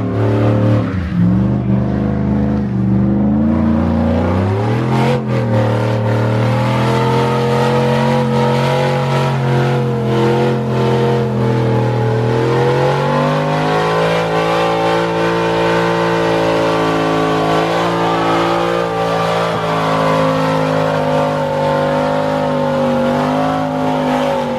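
A car engine held at high revs for a long stretch. The pitch holds level, steps up sharply about four seconds in, then climbs again and holds.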